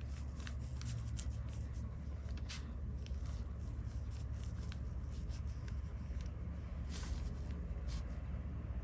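Light scratchy swishes and ticks of a Chinese brush stroking across sized xuan paper, with a few stronger strokes, over a steady low hum.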